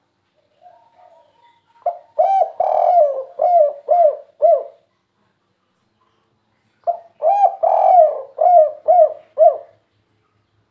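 Spotted dove (tekukur, the 'kuk 3' song type) cooing: a faint short call, then two phrases of about six coos each, a few seconds apart.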